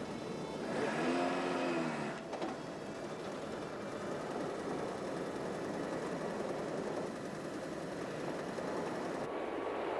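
A car engine running as the car creeps along at walking pace, over a steady street-noise hiss. About a second in, a pitched tone rises and falls for about a second.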